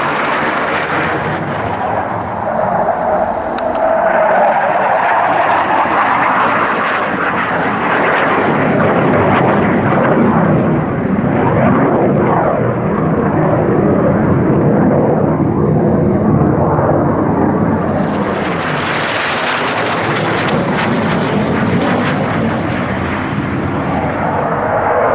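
Engine of a display aircraft flying past, a loud continuous rush with slowly sweeping tones as it moves across the sky. It grows brighter about three-quarters of the way through.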